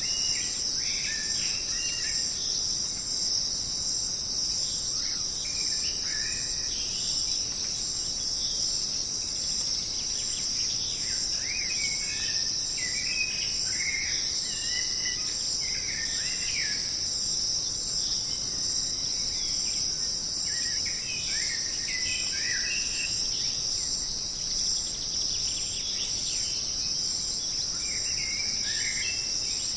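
Jungle insect chorus, a steady high-pitched buzzing and trilling that never lets up, with birds giving short chirping calls on and off over it.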